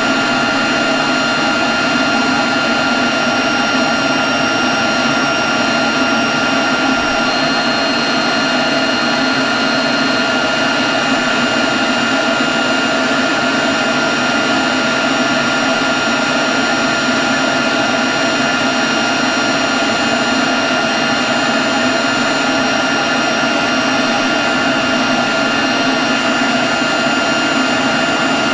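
Leaf blower running continuously at a steady speed: a constant rush of air with a high, unchanging whine.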